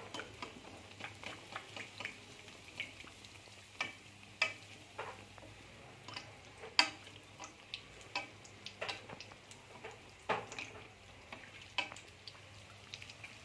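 Nan puri deep-frying in hot oil in an aluminium kadai: a faint sizzle broken by irregular sharp clicks and pops as a metal spatula presses and turns the puri against the pan. The loudest click comes about seven seconds in.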